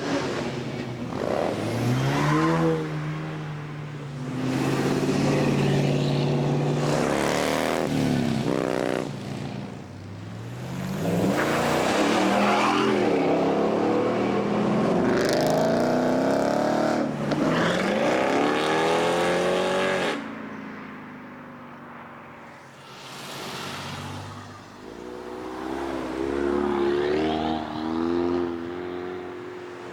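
Several cars in turn accelerate hard away from the meet, with loud exhausts. The engine pitch climbs and drops back again and again as they rev and shift, with the longest, loudest pull in the middle.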